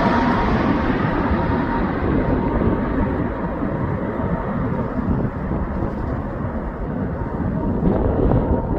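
Jet airliner engine rumble as a landing plane goes by: the higher hiss fades away over the first few seconds, leaving a steady low rumble.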